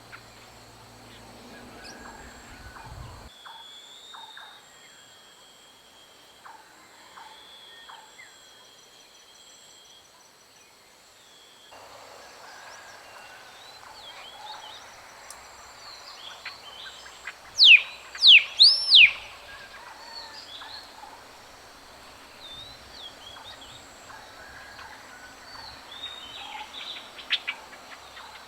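Wild birds calling over a steady high insect drone, with the background changing abruptly twice between recordings. About two-thirds of the way through, a bird gives three or four loud sweeping whistles, the loudest sounds here.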